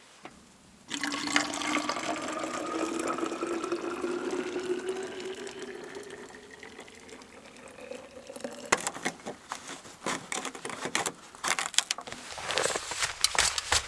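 Water poured into a container, the pitch rising steadily as it fills, starting abruptly about a second in and running for about seven seconds. In the second half it gives way to a run of sharp clicks and knocks.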